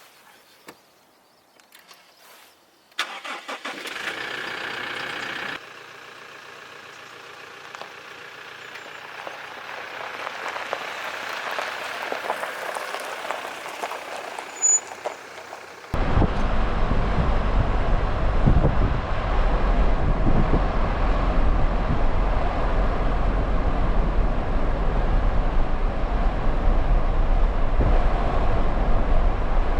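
A car engine starting up about three seconds in and running, followed about halfway through by a sudden change to a loud, steady rumble of the car driving, with road and wind noise.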